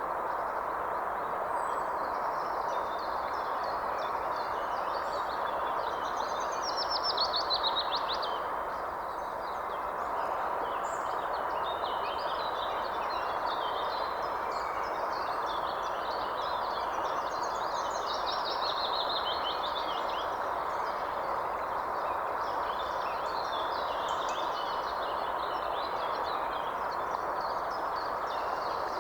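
Wild birds calling and chirping over a steady, even background hiss, with two longer trills, one about a quarter of the way in and one past the middle.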